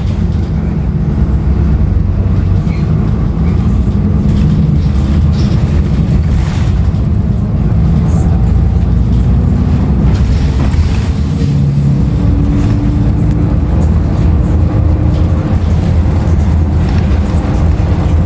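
Cabin sound of a 2016 Nova Bus LFS transit bus under way: its Cummins ISL9 diesel engine and the road noise make a loud, steady low rumble, with a faint tone that rises slowly in the second half.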